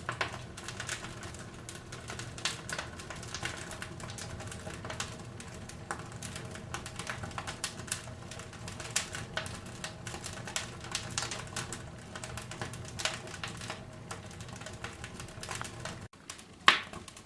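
Firewood crackling as it burns in a cast-iron wood-burning fireplace stove: irregular sharp pops and ticks over a faint steady hum, with one louder pop near the end.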